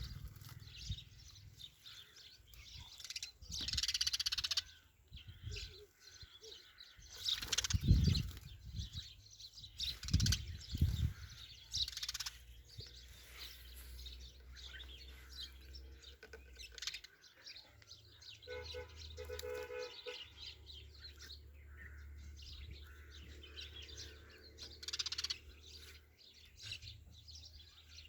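Birds chirping in short, repeated calls, with a few loud thumps and rustles in the first half and a low steady hum underneath in the second half.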